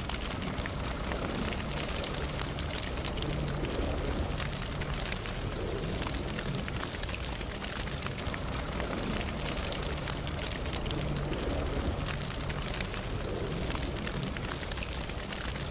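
Campfire burning: a steady hiss of flames with many small, sharp crackles and pops scattered throughout.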